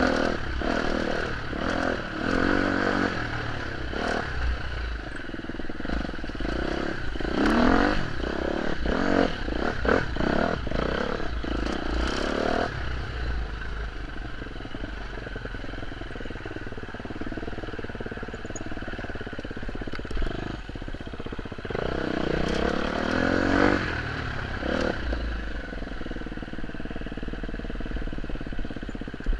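Off-road motorcycle engine running under way, the revs rising and falling several times, with clattering knocks mixed in.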